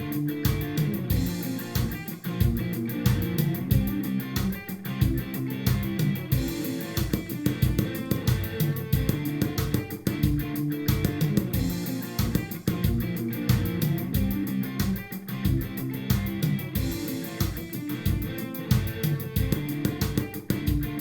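Guitar loop of chords and riff playing back from a NUX Dual Loop Stereo looper with an Alesis SR-18 drum machine, spattered with sharp ticks ('tac tac tac'), sometimes three in a row, then a pause. The ticks are interference that enters the audio while the looper is MIDI-synced to the drum machine, which the owner puts down to a cheap galvanic isolator on the looper's MIDI input.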